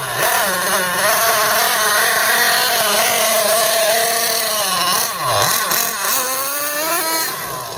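Small two-stroke nitro glow engine of a Team Associated MGT 8.0 RC monster truck running at high revs, its pitch rising and falling as the throttle is worked. About five seconds in the pitch dips sharply and picks up again, then the sound fades as the truck moves off.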